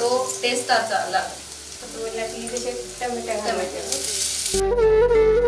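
Chopped onions and green chillies sizzling in hot oil in a black kadai, stirred with a metal spatula. About four seconds in, chopped tomatoes go into the pan with a louder burst of hissing. Flute music comes in near the end.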